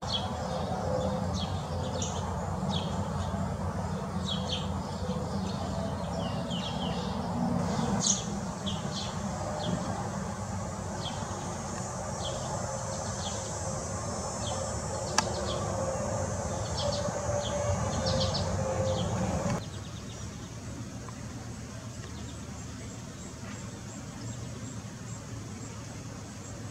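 Small birds chirping in short, repeated high notes over a steady low hum of outdoor background noise. About two-thirds of the way through, the sound cuts to a quieter background with faint, evenly spaced high ticks.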